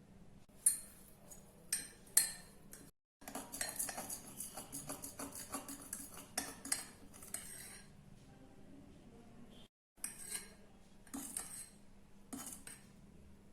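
A spoon clinking against a mug while cake batter is mixed. There are a few separate taps, then several seconds of quick, rapid clinks from stirring, then more scattered taps near the end.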